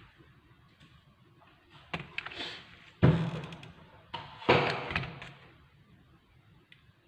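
A few knocks and thuds, with the two loudest about three seconds and four and a half seconds in, each dying away over about a second.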